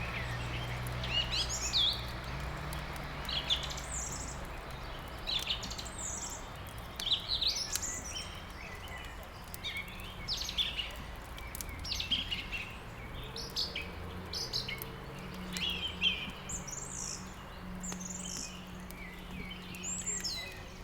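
Several songbirds chirping and trilling in quick, short phrases throughout, over a steady low hum, with faint crackling from a wood fire.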